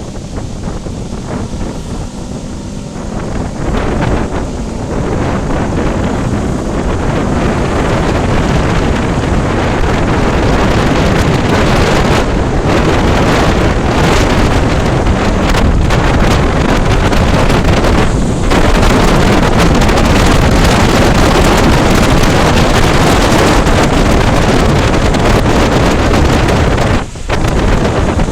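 Wind rushing over the microphone of a motorcycle moving at speed in heavy rain. The steady roar drowns out the engine, builds over the first few seconds and dips briefly near the end.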